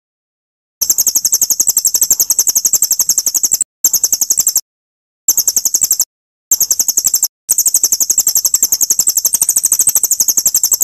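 Small songbird's rapid, very high-pitched trill of repeated notes, about ten a second, from an edited bird-song training recording: the trill comes in five spliced stretches that start and stop abruptly, with dead silence between.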